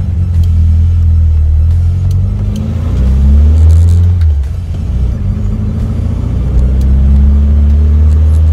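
Tuned 2007cc air-cooled VW Beetle flat-four accelerating, heard from inside the cabin: the engine note climbs, drops at a gear change about four seconds in, then climbs again.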